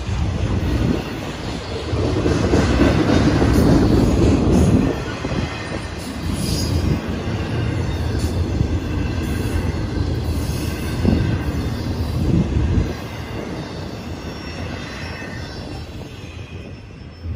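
Union Pacific intermodal freight cars, truck trailers on spine cars, rolling past: wheels clattering over the rail joints with some high wheel squeal. The sound fades as the last car goes by near the end.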